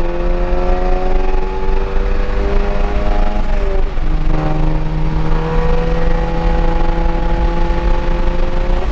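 Volkswagen Mk7 Golf GTI's turbocharged four-cylinder, with straight-piped exhaust, accelerating hard through the gears, heard from inside the cabin. The engine note climbs steadily, drops with an upshift about three and a half seconds in, climbs again, and drops with another shift at the end.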